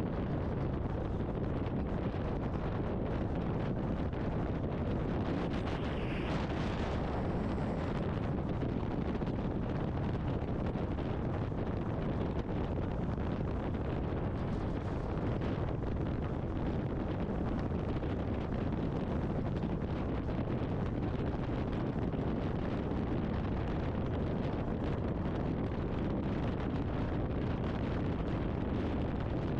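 Steady wind rush and engine-and-road rumble from a BMW R 1250 GS Adventure's boxer twin at riding speed, heard through a helmet com-unit microphone. A brief brighter hiss rises about six seconds in.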